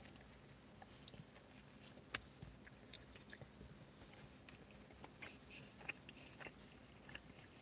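Faint sounds of a man biting and chewing a mouthful of a big stacked burger: soft, wet mouth clicks and smacks scattered throughout, with a sharper click about two seconds in.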